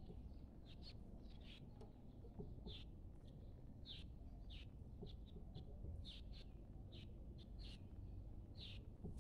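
Faint bird chirps: short, high calls at irregular intervals over a low, steady room hum.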